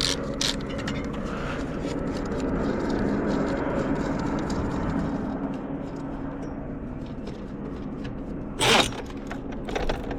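A motor vehicle engine running steadily with a low hum, swelling a little a few seconds in; near the end a short, loud burst of rushing noise.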